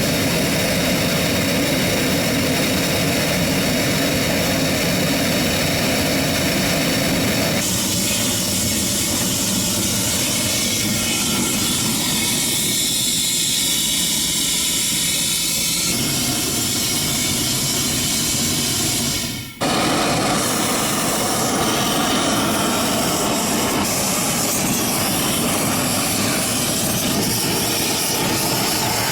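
A home-made venturi gas burner, converted from natural gas to LPG with a 3/32-inch jet, running with a loud, steady rushing flame. Its tone changes about eight seconds in, and it drops out for a moment about 19 seconds in before coming straight back.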